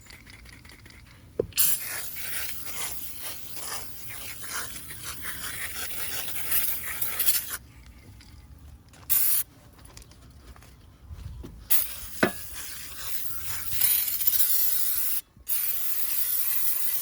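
Aerosol can of foaming coil cleaner spraying onto air-conditioner coils in several long bursts of hiss, with short pauses and a few clicks of the nozzle between them, as the can runs low.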